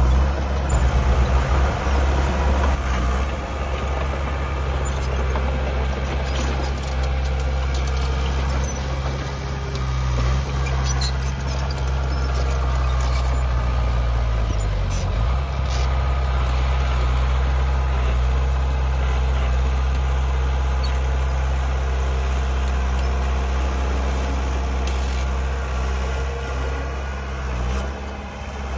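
Heavy diesel engine of earthmoving machinery running steadily with a deep drone. About halfway through, the engine speed dips briefly under load and then picks back up. Faint clanks sound over it.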